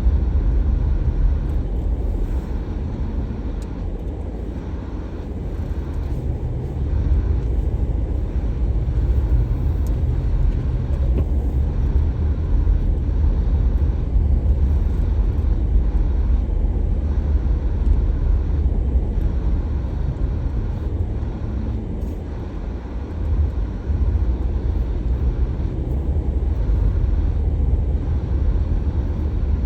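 Car driving, a steady low rumble of road and engine noise with no distinct events, easing slightly a few seconds in and again a little past the middle.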